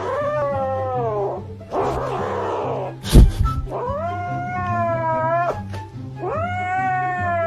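A cat yowling in three long, drawn-out calls, with background music underneath. A sharp knock comes a little after three seconds in.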